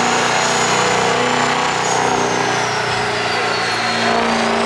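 Truck engines running at a steady level in a line of show trucks, with a dense background rumble and no clear single event.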